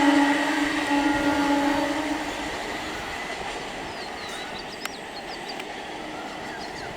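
Indian Railways EMU local train moving away, its steady electric motor whine fading out over the first two seconds and leaving a dwindling rail rumble.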